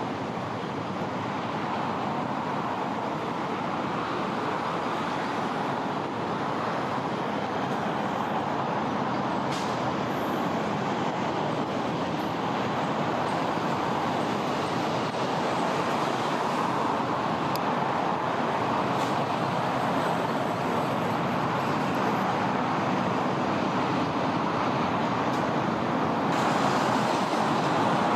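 Steady rushing of shallow river water flowing over stones.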